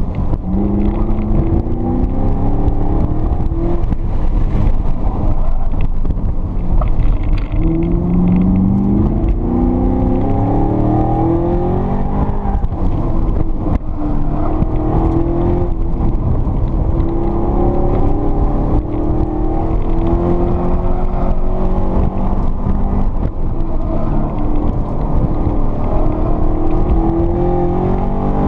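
Chevrolet Camaro's engine heard from inside the cabin on a hard autocross run, its pitch climbing again and again under acceleration and dropping back when the driver lifts and brakes for the corners.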